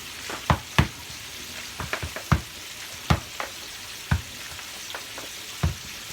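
Pork chops frying in a pot of hot oil: a steady sizzle with sharp, irregular pops and crackles of spattering oil.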